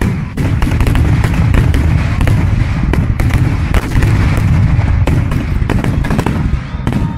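Aerial fireworks shells bursting in rapid succession: a continuous rumble of booms with many sharp cracks layered on top, sped up to double speed.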